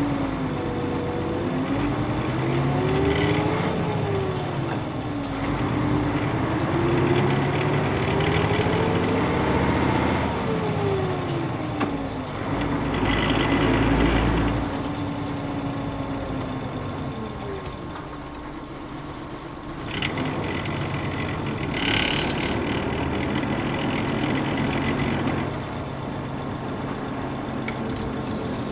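Nissan Diesel UA bus with its PF6HTA diesel engine running under way, heard from inside: the engine pitch climbs and drops again several times as it pulls through the gears of its manual gearbox. Louder stretches of broad hiss come in partway through and again in the second half.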